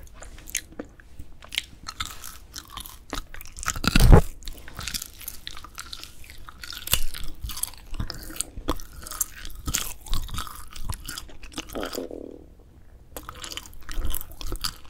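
Close-miked chewing and biting of grilled dried filefish fillet (jwipo), with many crisp crackling clicks as the chewy fish is torn and chewed. A loud thump comes about four seconds in, and the chewing eases off briefly near the end.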